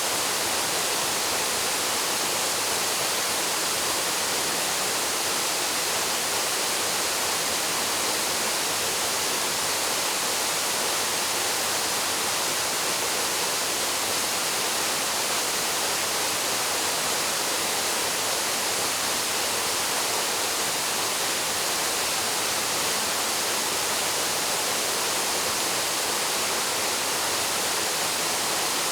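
Waterfall plunging into its pool: a steady, unbroken rush of falling water that is strongest in the high hiss.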